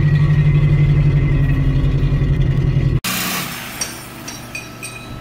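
Acura Integra four-cylinder engine running with its exhaust rusted off and broken, giving a loud, steady, low drone. It stops abruptly about three seconds in, leaving a quieter steady hum with a few light metallic clinks.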